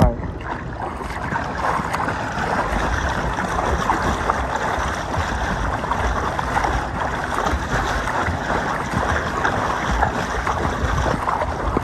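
Steady rush of wind on the microphone mixed with water splashing and lapping, with an uneven low rumble throughout.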